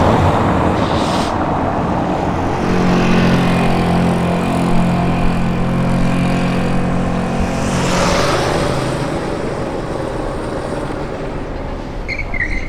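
A motor vehicle's engine running steadily at an even pitch for several seconds, fading after about eight seconds, over street noise and wind on the microphone.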